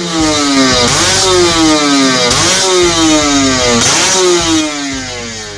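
Yamaha Vixion motorcycle's single-cylinder engine revved through a gutted (bobok) muffler: three quick throttle blips, each climbing sharply and then falling slowly back. The hollowed-out muffler is meant to give a deep, round exhaust note.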